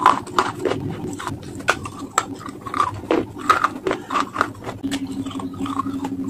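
Close-miked chewing and mouth sounds: irregular wet clicks and smacks. A steady low hum joins in about five seconds in.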